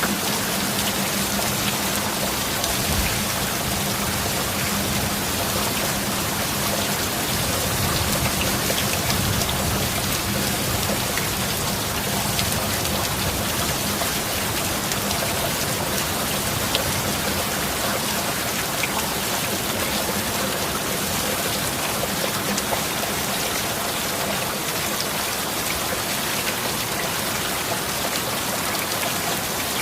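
Heavy rain falling steadily: a dense, even hiss with fine drop ticks throughout.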